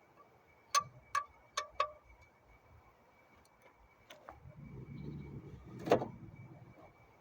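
Four quick metallic clinks with a short ring, as of metal hand tools knocked together, then a single click, a low shuffling rustle and one sharp knock near the end.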